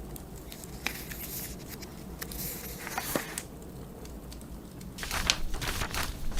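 Paper book pages being turned, crisp rustles about a second in and again around three seconds in, with a cluster of sharp crackles and rustles near the end, over a steady low rumble of blizzard wind and a fireplace.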